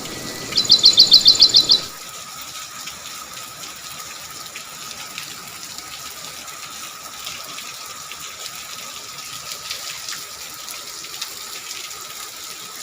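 Steady rain falling, with a bird giving a fast run of about ten sharp, high notes about a second in.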